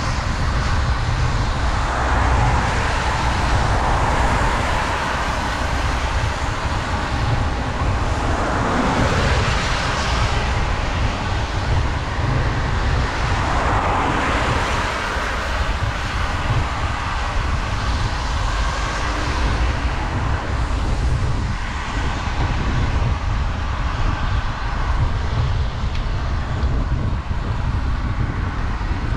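Heavy wind rumble on the microphone of a bicycle riding downhill in pouring rain, with the hiss of wet road, and several vehicles swishing past on the wet road, one every few seconds.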